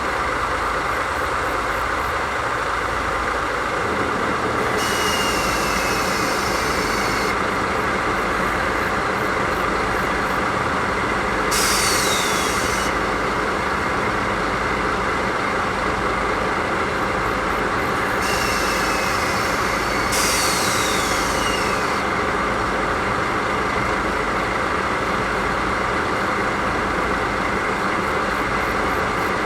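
DD51 diesel-hydraulic locomotive idling steadily on its twin V12 diesel engines. Four bursts of compressed-air hissing, each a second or two long, come over it, most with a falling whistle, the last two back to back.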